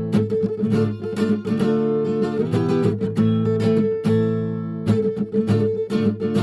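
Acoustic guitar strummed and picked in an improvised A minor jam: repeated chord strokes ringing over sustained notes.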